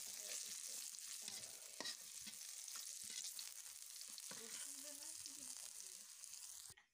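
Green chilies sizzling in hot oil in a black iron karahi, stirred with a steel spatula that scrapes and knocks against the pan now and then. The sizzle cuts off suddenly near the end.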